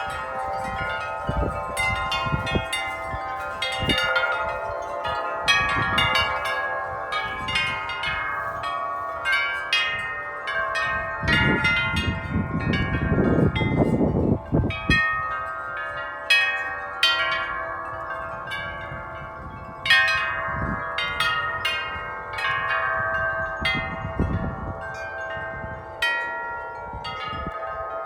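Several large tuned metal wind chimes struck over and over by strong, gusting wind, their many ringing tones overlapping into a dense wash. A low rumble of wind comes in about halfway through.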